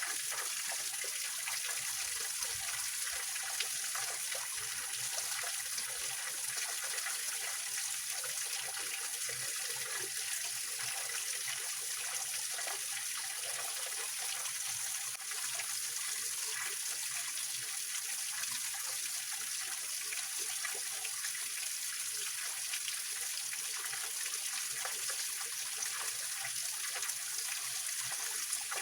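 Small waterfall and rocky mountain stream splashing and trickling over stones, a steady rush of water with most of its sound high up.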